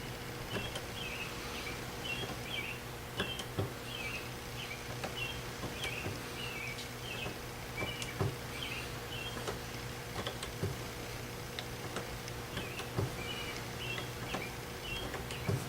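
Steady low electrical hum with irregular light clicks, and a small bird chirping over and over in the background, pausing briefly past the middle.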